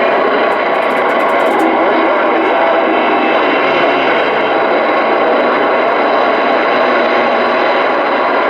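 Steady hiss of band static from a Stryker SR-955HPC CB radio's receiver speaker, listening on channel 19 after a call for a radio check, with a little crackle about a second in.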